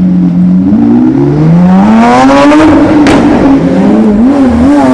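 Race car engine revving. The pitch climbs over the first two seconds or so, wavers, dips briefly near the end and climbs again.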